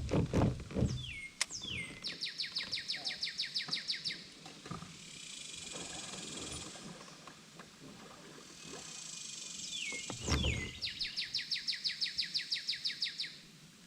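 A songbird singing twice, each song two quick falling whistles followed by a fast, even trill lasting about two seconds. Low knocks come at the start and just before the second song.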